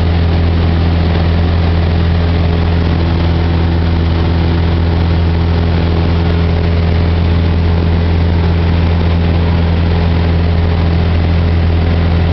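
Cessna 172's piston engine and propeller running steadily, a loud even drone with a strong low hum.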